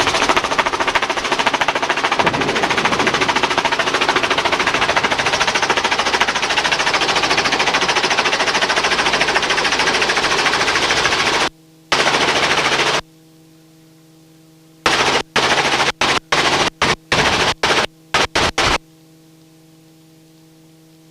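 Helicopter cabin noise: fast rotor chop over steady engine noise. About eleven and a half seconds in it cuts off abruptly, comes back for about a second, then switches on and off in a run of short spurts, with a steady electrical hum between them.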